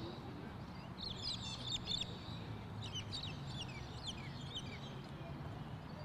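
Birds calling with clusters of short, high chirps that fall in pitch, in a burst about a second in and another from about three seconds on, over a faint low steady hum.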